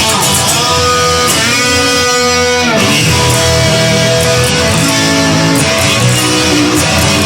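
Instrumental rock music led by guitar, with no singing. The guitar holds sustained notes, and about two and a half seconds in a cluster of notes slides down in pitch.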